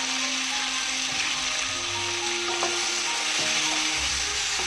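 Potato, brinjal and flat-bean pieces sizzling steadily in mustard oil in a wok, while a wooden spatula stirs them and knocks against the pan a few times.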